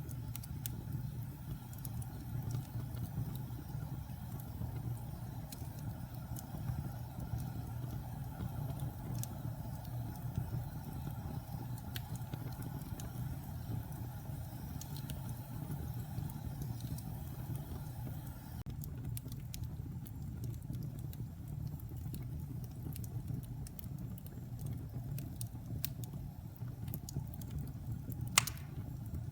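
Wood fire burning in a fireplace: a steady low rumble of flames with scattered sharp crackles and pops from the burning logs, and one louder snap near the end.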